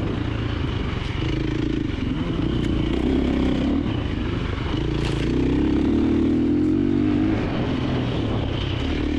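KTM 350XC-F dirt bike's single-cylinder four-stroke engine running under the rider, its note swelling and easing off with the throttle several times, with a few light knocks from the trail.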